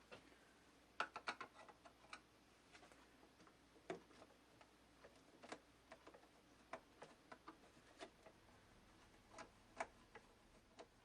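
Faint, irregular small clicks and taps from handwork on the plastic case of a Brother CS6000i sewing machine as it is unscrewed and taken apart, with a little cluster of clicks about a second in.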